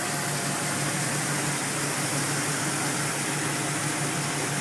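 Chevy pickup's engine idling steadily under the open hood, partly warmed up, with a strong rush of fan and engine-bay noise.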